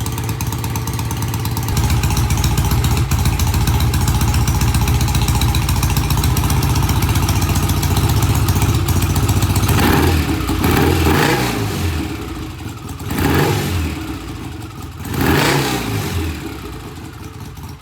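BSA A65 parallel-twin engine idling steadily, then blipped on the throttle four times in the second half, each rev falling straight back to a smooth idle. Its freshly cleaned Premier carburettors give a good idle on both cylinders.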